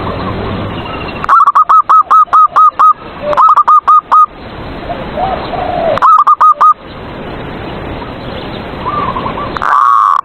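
Zebra dove (perkutut) cooing: three runs of quick, loud repeated notes, about five a second, and another loud phrase near the end, over a steady hiss.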